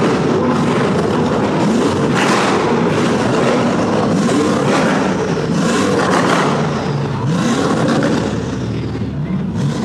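Car engines revving and accelerating away, the pitch rising and falling several times.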